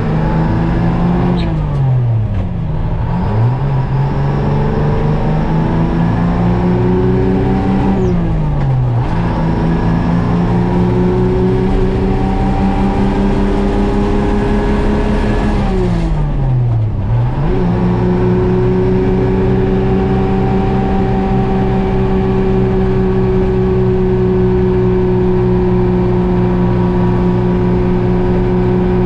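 GMC Crackerbox semi truck's two-stroke Detroit Diesel running under load through the gears. The engine pitch climbs in each gear, drops sharply at three upshifts, and after the last shift holds steady at cruising speed.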